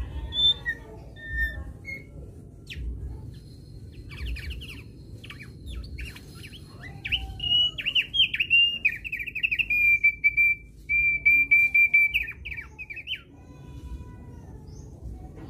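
Thick-billed white-eye singing: scattered short chirps, then from about four seconds a fast run of notes that settles into a long, rapid, even trill, stopping about thirteen seconds in. A low steady rumble of background noise lies underneath.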